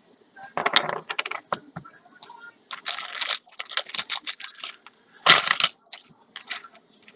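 Packaging being handled and crinkled, in irregular bursts of crackling and rustling with a loud crunch about five seconds in.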